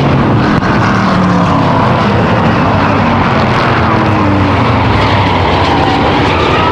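A pack of V8 stock cars and trucks racing at full throttle, many engines running at once, their pitches rising and falling as they go by.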